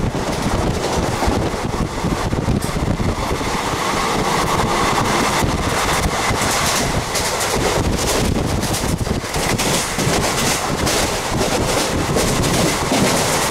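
Passenger express train running at speed, heard from an open doorway: wind buffeting the microphone over the steady rumble and clatter of the train's wheels on the rails.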